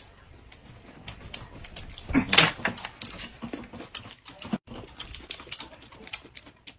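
Close-miked eating sounds: chewing and crunching hand-grabbed pancake wraps with lettuce, a run of small wet clicks and crackles. A louder rustling crunch comes about two seconds in.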